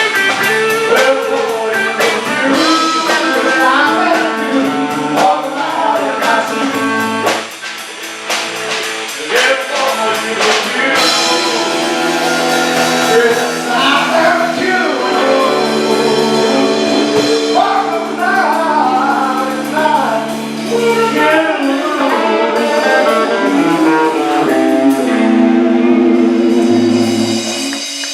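Live band performing a song: singing over guitar accompaniment, loud and continuous.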